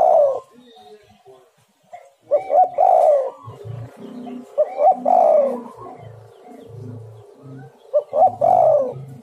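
Spotted dove (tekukur) cooing: three roughly one-second cooing phrases, each starting with short notes, coming about every two and a half to three seconds. From a few seconds in, a deeper rhythmic hooting runs quietly underneath.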